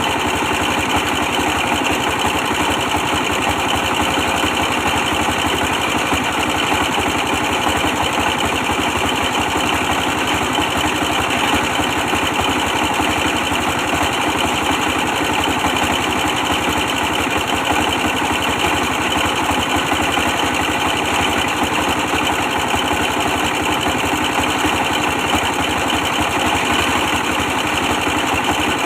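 24 hp diesel engine running steadily, driving a brick press machine.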